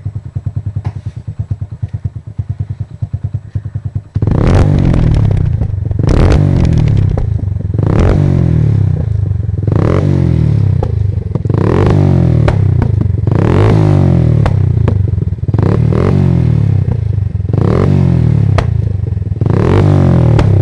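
Hero Honda Splendor's single-cylinder four-stroke engine, fitted with a modified exhaust, idling with an even, low putter. About four seconds in, it starts being blipped hard, with a rev rising and falling roughly every two seconds.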